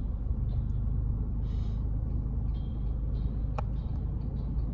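Steady low rumble of a car driving along, with a single faint click about three and a half seconds in.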